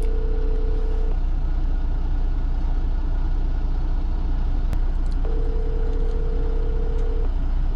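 Phone ringback tone of an outgoing call, heard in two-second rings: one ends about a second in and the next sounds from about five to seven seconds, while the call goes unanswered. Under it, a steady low rumble from the semi truck's engine running.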